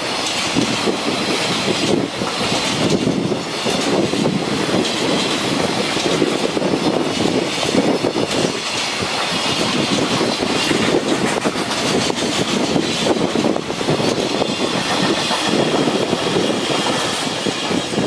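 Freight train rolling past, its wagons' wheels clattering steadily over the rail joints.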